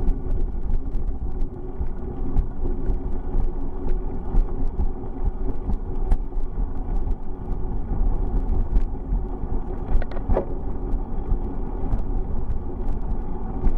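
Riding noise on a bicycle ride: a steady low rumble of wind and road, with many small rattling clicks and one brief higher sound about ten seconds in.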